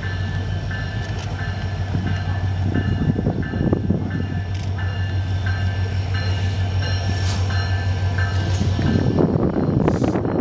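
Alaska Railroad train running on the track: a steady low drone with a faint tone that repeats about every two-thirds of a second, and swells of rumbling rail noise.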